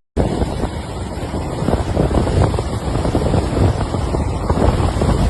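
Floodwater rushing, mixed with heavy wind buffeting on the microphone: a loud, dense, gusty rumble.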